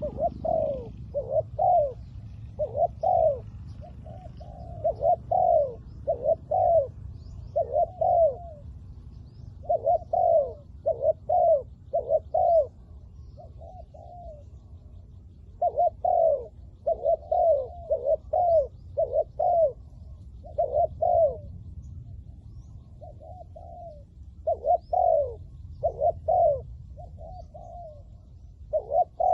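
Spotted dove cooing: short repeated coos that come in groups of two to four and keep on throughout, over a low steady background rumble.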